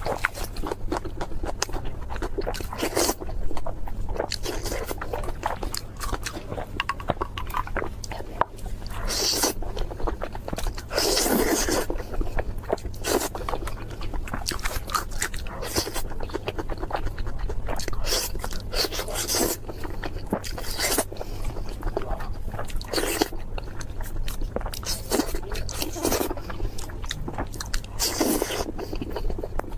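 Close-miked crunchy eating: crispy food being bitten and chewed, with a louder crackling crunch every couple of seconds between denser chewing crackles.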